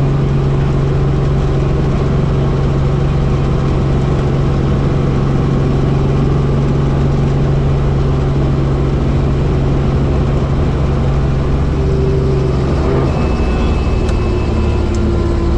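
Tour helicopter's engine and rotor droning steadily, with a low hum and its overtones. About thirteen seconds in, the pitch of the drone shifts.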